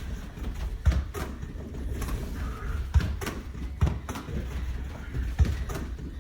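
Soccer ball being struck and returned in a partner passing drill: sharp thumps about every two seconds, with lighter knocks and taps between.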